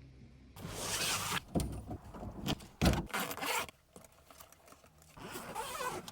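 Handling noises: a run of rustling scrapes and sharp clicks, the loudest click just under halfway through, then a short lull and one more rustle near the end.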